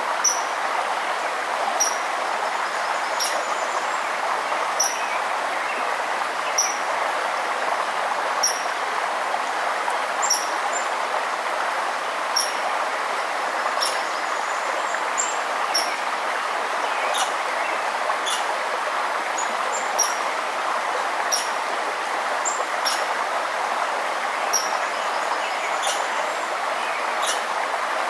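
Steady rushing of a forest stream or river, with a small bird repeating a short, high chirp about every second and a half over it.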